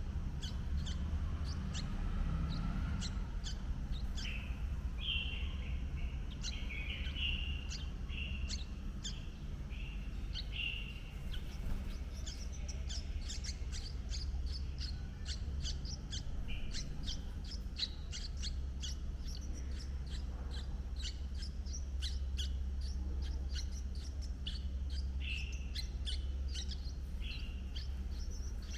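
Birds chirping: a fast run of thin, high chirps, several a second, mixed with short, lower call notes in groups, over a steady low rumble.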